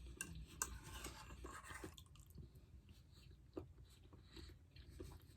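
Faint chewing while eating, with scattered small clicks and mouth noises.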